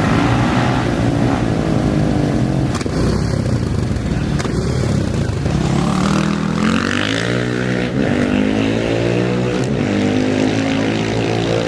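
Off-road racing engine revving and accelerating, its pitch rising and falling several times, with the strongest climb about halfway through.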